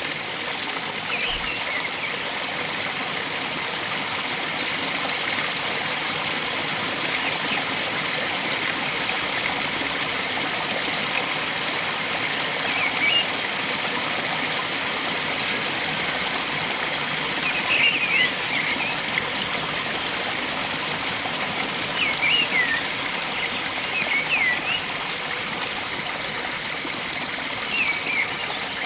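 Flowing water rushing steadily, with short, high bird chirps breaking in every few seconds.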